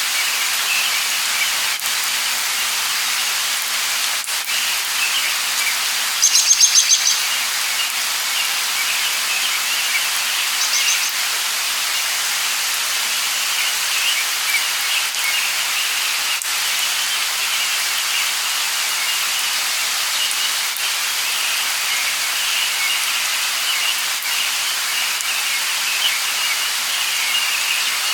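Light rain falling steadily, with birds chirping throughout and a louder quick run of high chirps about six seconds in.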